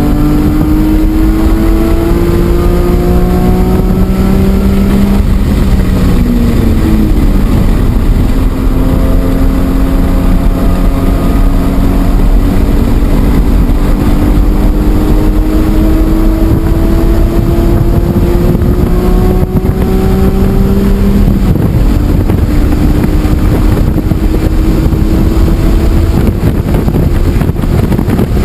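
BMW E46 M3's S54 straight-six at full throttle on track, its pitch climbing steadily under acceleration and falling back about six seconds in and again past twenty seconds as it shifts or lifts, over heavy road and wind rumble inside the car.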